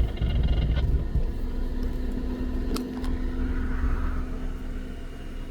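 Off-road car engine running, louder for about the first second, then easing off to a steady lower run.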